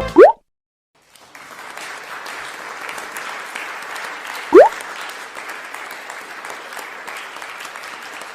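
Applause, an even crackling of many hands clapping, starting about a second in, with a short rising swoop about four and a half seconds in.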